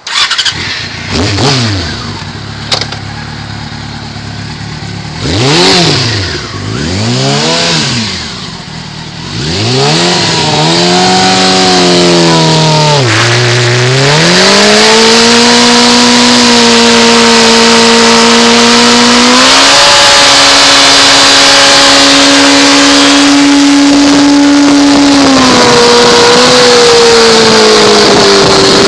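2004 Yamaha R6 inline-four engine revved in a few sharp blips, then held at high revs for a burnout, with a steady hiss of the spinning rear tyre building under it. The revs dip and recover briefly a few times during the long hold.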